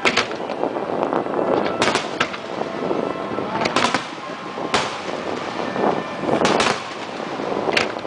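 Aerial firework shells bursting: sharp bangs every second or two, some in quick pairs, over the continuous noise of the display.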